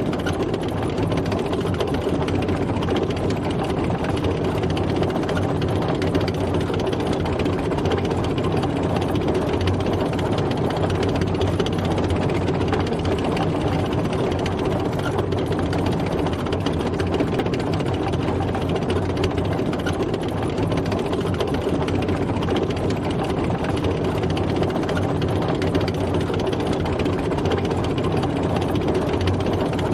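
Tank driving, its engine running steadily at a constant pitch and speed.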